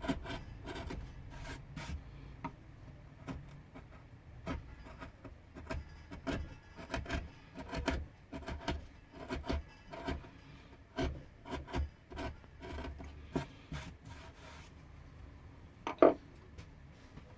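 Hand carving in pine wood: a blade tool scrapes and cuts in short, irregular strokes, one to three a second, with one louder knock near the end.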